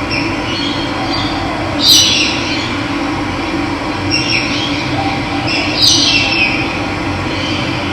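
Steady rush of running water, with birds calling over it: short descending high calls, the two loudest about two and six seconds in.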